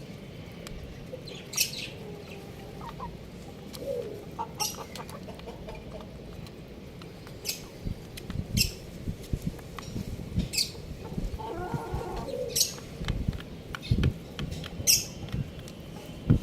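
Young chickens pecking rice off a hard surface: sharp taps every second or two among softer knocks, with a few soft clucks.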